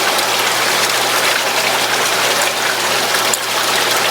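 Steady, loud rushing water noise, an even hiss without breaks.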